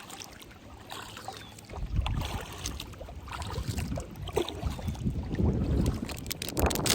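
Wind gusting over the microphone from a kayak on the open river, a low rumble that builds from about two seconds in, with a sharp crackle near the end.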